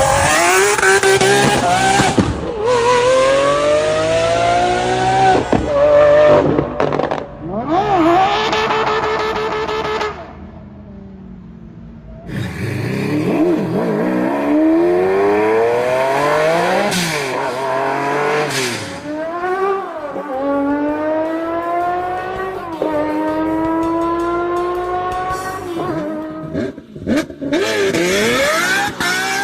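Naturally aspirated V12 car engines revving hard and accelerating through the gears, the pitch climbing and dropping back at each shift, in several clips one after another with a quieter passage about a third of the way in.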